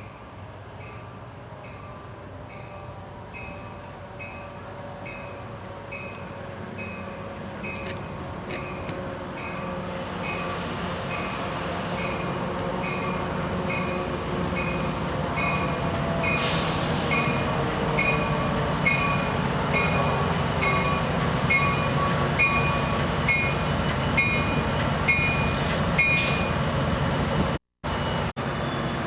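A low mechanical rumble that grows steadily louder, with slowly falling tones and a regular ringing or clicking about twice a second. The sound cuts out twice, briefly, near the end.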